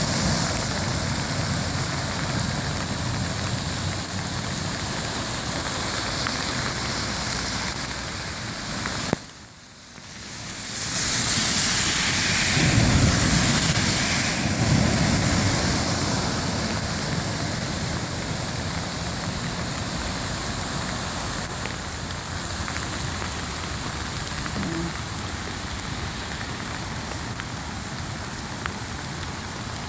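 Heavy rain and running floodwater, a steady hiss. About nine seconds in it drops away suddenly after a click, then swells back to full strength a few seconds later.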